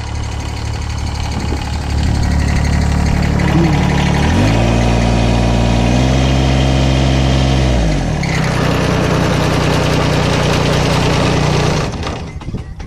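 Kubota BX1860 tractor's three-cylinder diesel engine idling, revved up about four and a half seconds in and held for a few seconds before dropping back to idle, then shut off near the end.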